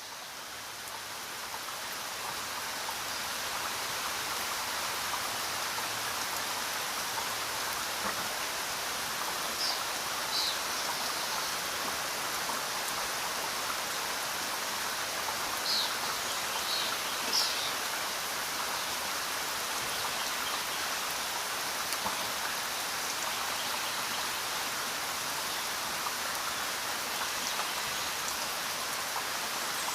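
Steady rain falling, an even hiss that fades in over the first few seconds, with a few brief high chirps around the middle.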